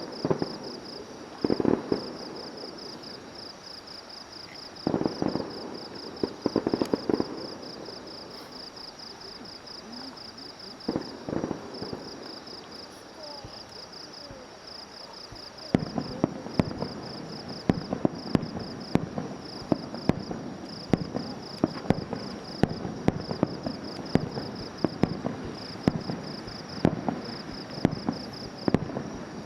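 Aerial fireworks bursting: a few clusters of booms and bangs, then, from about halfway, a dense run of rapid sharp crackling pops. A steady high-pitched pulsing chirp continues underneath.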